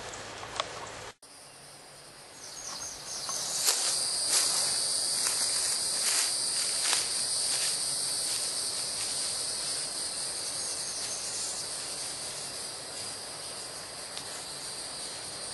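Steady high-pitched chorus of insects buzzing, swelling up after an abrupt cut about a second in and then holding. A few sharp clicks or taps come over it in the first seconds.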